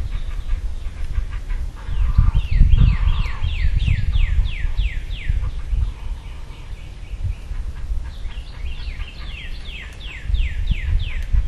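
A bird calling in runs of quick down-slurred notes, about three a second, in three bursts, over a steady low rumble.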